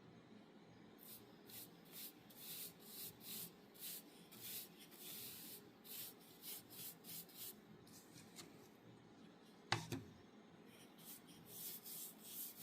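Faint scratchy strokes of boiled linseed oil being brushed or wiped onto old, dry window wood, roughly one to two strokes a second, with a single sharp knock about ten seconds in.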